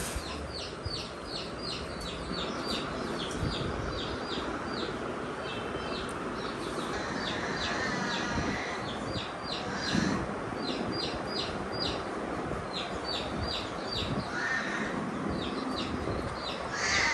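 A small bird chirping over and over, short high chirps about four a second in runs with brief pauses.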